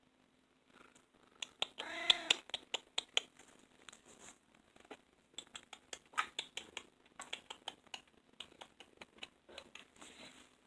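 A domestic cat meowing once, a short call that rises and falls in pitch about two seconds in, followed by scattered soft clicks and taps.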